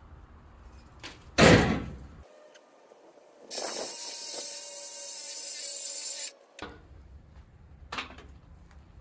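A loud metal clank, then about three seconds of a power tool cutting metal with a steady high hiss, then a lighter knock near the end.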